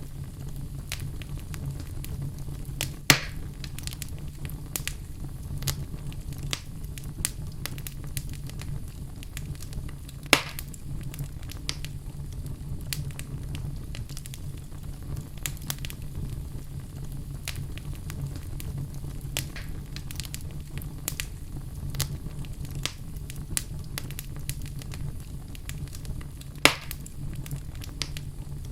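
Fire burning in a fireplace: a steady low rumble with frequent small crackles and three loud, sharp pops.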